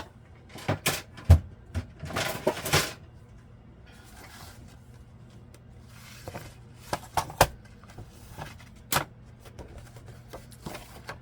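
An envelope punch board being picked up, set down and handled: a few sharp knocks and clicks, the loudest about a second in, a short rustle soon after, and a few more scattered clicks later.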